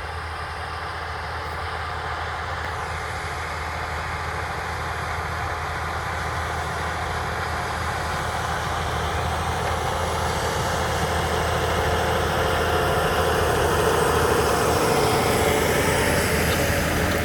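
Tractor engine running a towed Ermo Hurricane 600 machine, a steady mechanical hum that grows gradually louder.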